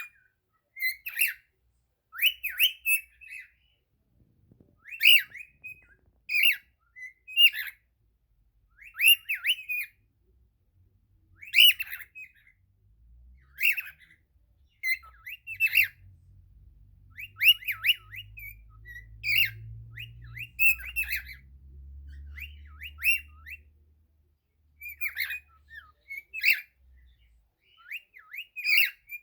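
Cockatiel singing: short phrases of quick whistled chirps, repeated every second or two with brief pauses between them.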